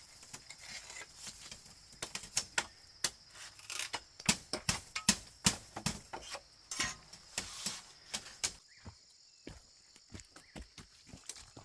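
Irregular series of sharp knocks and taps, many in quick succession, thinning out to a few faint ones about eight seconds in, over a steady high-pitched hum.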